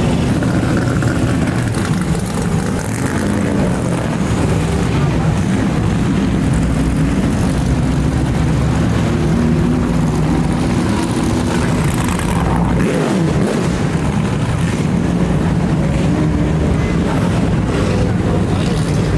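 Classic car engines running at low revs in a street, a steady rumble that shifts in pitch now and then.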